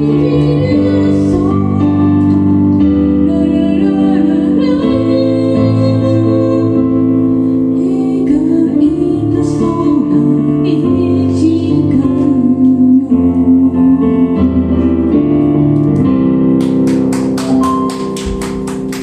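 A band playing a song live, with a sung melody over keyboard chords. Near the end the song thins out into a run of quick, even drum or cymbal hits, about five a second.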